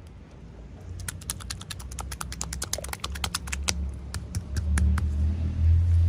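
Rapid small clicks and taps of hands handling small plastic toy pieces and packaging, several a second, over a low rumble of handling noise that grows louder near the end.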